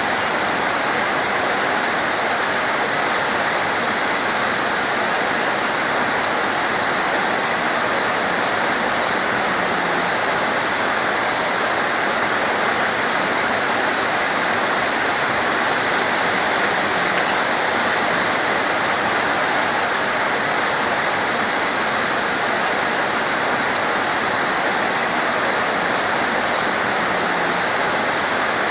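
Torrential rain falling in a steady, dense hiss with no let-up.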